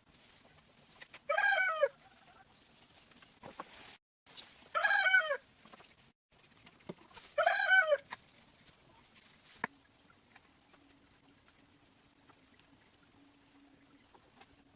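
A chicken calling three times, each a short call of about half a second falling in pitch, spaced a few seconds apart. A sharp click comes about ten seconds in, followed by a faint steady hum.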